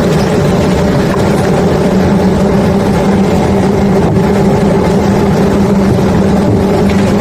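Heavy engine running steadily with a constant low hum, over an even rushing noise, during the unloading of limestone from a barge.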